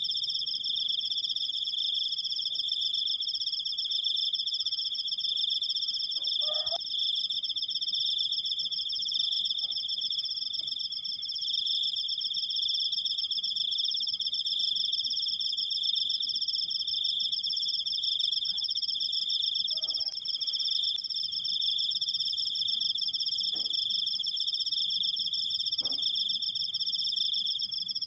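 Cricket trilling in one long unbroken 'krikkkk', a steady high-pitched trill on two pitches that never pauses.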